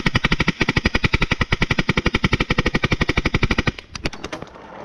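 Paintball marker firing a rapid, even stream of shots, about fifteen a second, that stops suddenly a little before the end, followed by a few scattered shots.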